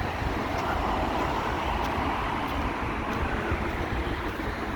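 A vehicle passing by: a steady rumbling hiss that swells through the middle and eases off near the end, with wind buffeting the microphone underneath.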